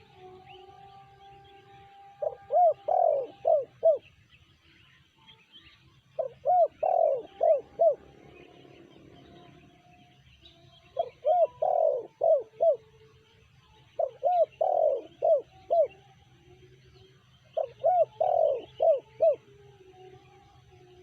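Spotted dove (tekukur) singing its cooing song, of the voice type Indonesian keepers call 'sanji': five phrases of about five quick coos each, repeated every four seconds or so.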